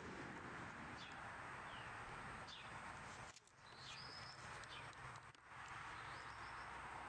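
Faint outdoor ambience: a steady hiss with short, high bird chirps scattered through, the longest about four seconds in.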